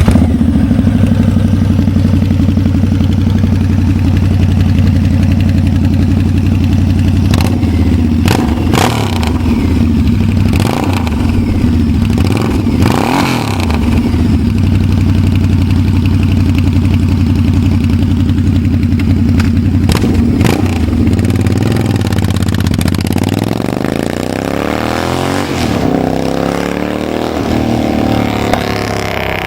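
Harley-Davidson V-Rod's liquid-cooled V-twin running through a Toxic Pipes Double Down 2-into-2 dual-sided exhaust: a steady low rumble with a few short sharp sounds over it. In the last several seconds it accelerates, the pitch rising in sweeps.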